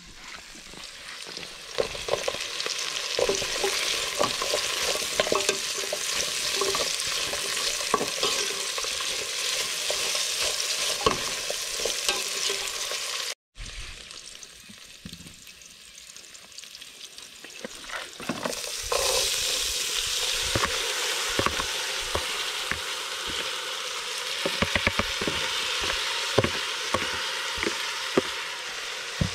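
Onion and carrot sizzling as they fry in a metal pot on a gas camp stove, with a spoon clicking and scraping against the pot as they are stirred. The sound cuts out briefly about halfway through.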